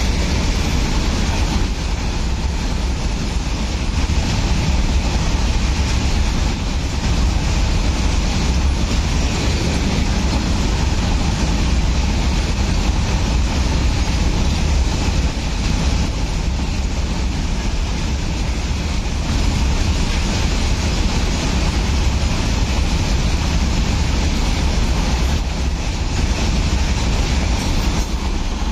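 Rake of BCNA covered freight wagons rolling past close by: steady rumble of steel wheels on the rails.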